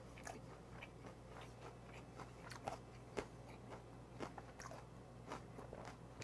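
Faint mouth sounds of chewing a wrap of gwamegi (half-dried Pacific saury) in laver with garlic scapes: soft, wet chewing broken by small crunches, the sharpest about three seconds in.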